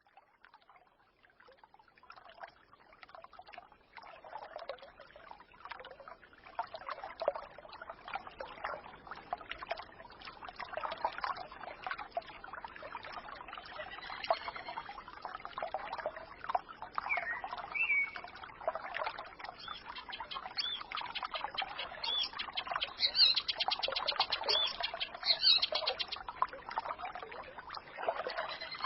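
A small forest stream trickling and babbling, with songbirds chirping and trilling over it, the birds clearest in the second half. The sound fades in from near silence over the first several seconds.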